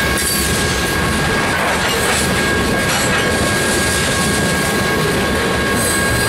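Freight train of two-bay covered hopper cars rolling past: a steady rumble and clatter of steel wheels on the rails, with two thin high tones held steady throughout.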